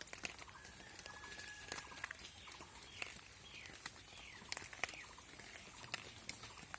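Rain dripping and pattering on garden plants, heard as irregular sharp ticks, with a thin whistle early on and a few short falling bird chirps in the middle.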